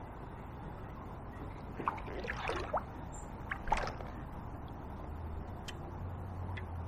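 Water sloshing and splashing in a short run of bursts for about two seconds, over the steady noise of a flooded river.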